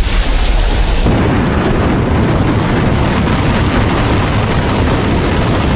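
Glacier calving: a huge mass of ice breaking off the glacier front and collapsing into the sea with a deep, continuous rumble. A loud hissing crash sounds in the first second, then dies away under the rumble.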